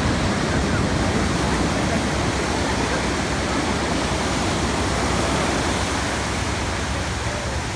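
Steady rushing noise of ocean surf breaking on a beach.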